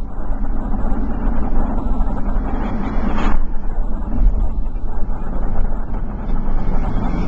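Motor vehicle engine running steadily, a loud low rumble with traffic noise over it.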